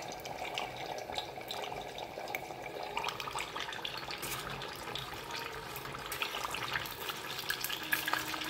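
Battered banana pieces frying in oil in a covered saucepan: a steady sizzle with fine crackling. It turns brighter about three seconds in, as the lid is lifted off.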